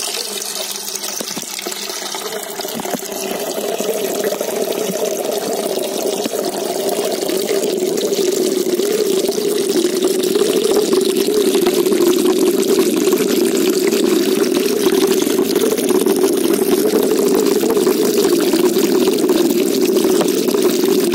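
Steady running, pouring water of a koi pond, growing louder over the first ten seconds and then holding steady.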